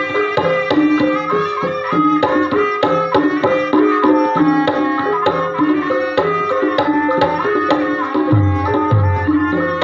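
Javanese gamelan music for ebeg: ringing pitched metallophone notes over steady hand-drum strokes, with deep low strokes near the end.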